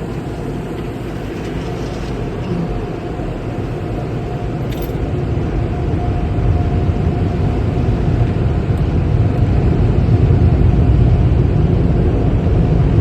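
Automatic car wash air-dryer blowers rushing against the car, heard from inside the cabin, growing steadily louder.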